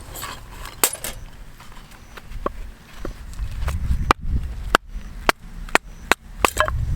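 Dry wood being broken up for a campfire: about a dozen sharp, irregular cracks and knocks, coming faster in the second half, over a low rumble.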